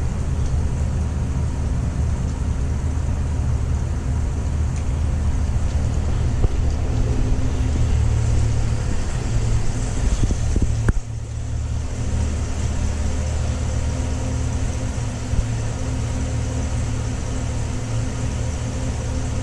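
A 2025 Chevrolet Tahoe High Country's 6.2-litre V8 idling steadily at the quad exhaust: a deep, even rumble, briefly dipping about eleven seconds in.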